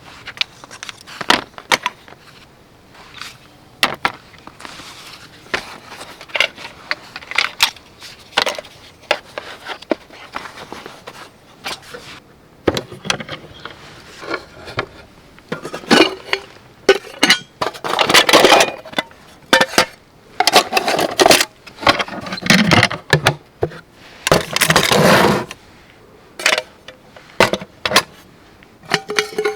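Close-up handling of camp gear: a run of small knocks and clinks, with louder bursts of scraping and rustling through the second half.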